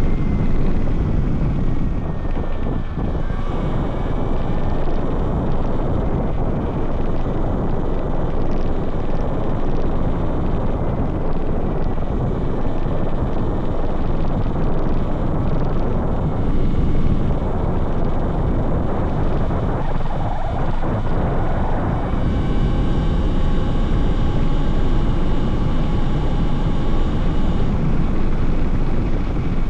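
Talaria Sting R MX4 electric dirt bike riding across a dry lake bed: steady wind buffeting the handlebar-mounted microphone over tyre rumble, with a thin electric motor whine that drifts in pitch and grows plainer near the end.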